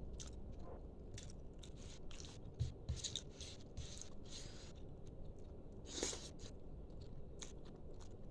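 A person chewing food close to the microphone, with many short wet mouth clicks and smacks, and a couple of low knocks about three seconds in.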